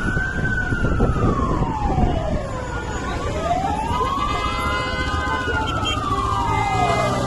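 Emergency vehicle's wailing siren, its pitch rising and falling slowly about every four to five seconds, over a steady low rumble.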